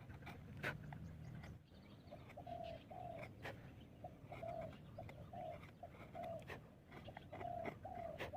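A bird calling with short, even notes repeated about two a second, broken by a few sharp taps.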